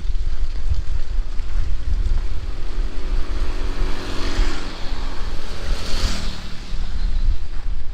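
A motor vehicle passing on a wet road in heavy rain: a steady engine hum for the first few seconds, then a hiss of tyres on the wet surface that swells to a peak about six seconds in and fades. A low rumble of wind on the microphone runs underneath.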